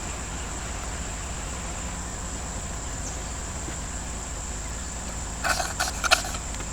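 Outdoor background with a steady high insect drone over a low rumble, then a few short clicks and knocks near the end from something being handled.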